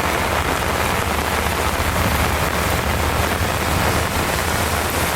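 Heavy rain falling in a steady, dense hiss, with a constant low rumble underneath.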